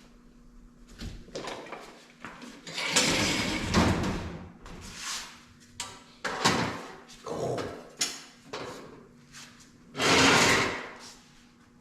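A series of scrapes and knocks of hard objects being dragged and shifted, with two longer scraping sweeps and several sharp knocks in between.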